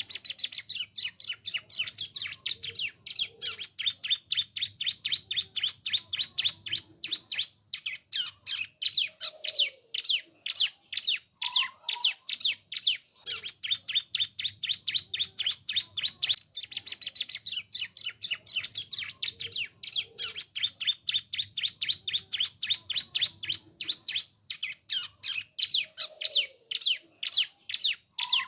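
A ciblek (prinia) singing its song: a long, fast run of sharp, high chirps, several a second, broken by a few brief pauses.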